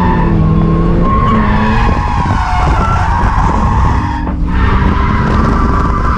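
Drift car with a swapped Ford Barra inline-six engine revving while its rear tyres squeal through a slide; the engine note rises and falls, with a brief dip about four seconds in.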